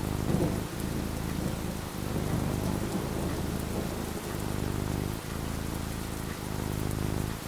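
Steady rain falling, with a low thunder rumble underneath that swells about half a second in.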